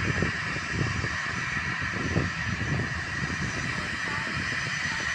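Jet airliner engines running: a steady rushing hiss with a steady whine near the top, over an uneven low rumble.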